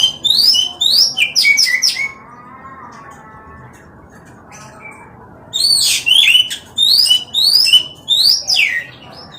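Oriental magpie-robin singing loud, sweeping whistled notes in two bouts of five or six quick phrases each, with a pause of a few seconds between the bouts.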